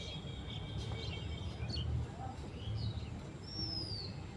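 Birds chirping, with a short falling whistle-like call near the end, over a steady low rumble.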